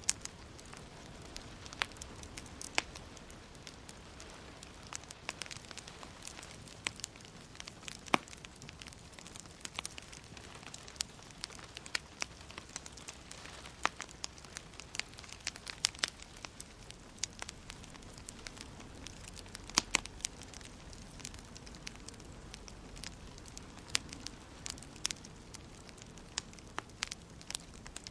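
Wood fire burning in a fireplace, crackling with irregular sharp pops, a few of them much louder, over a soft steady hiss.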